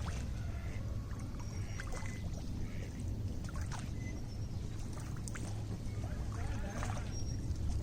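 Lake water lapping and splashing in small, irregular splashes over a steady low rumble.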